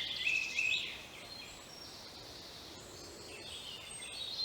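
Woodland songbirds singing: a quick run of short, clear notes in the first second, then quieter high calls over a faint background hiss.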